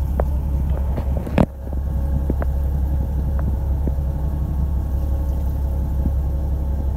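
Fishing boat's engine running with a steady low drone, with one sharp knock about a second and a half in and a few light ticks.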